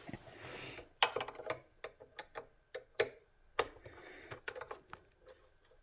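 A soft rustle, then irregular sharp clicks and taps of small parts and tools being handled while wiring a bench power supply. The loudest click comes about three seconds in, and the clicks thin out near the end.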